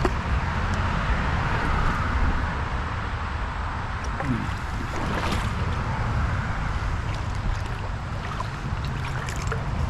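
Steady rush of flowing creek water with a low wind rumble on the microphone.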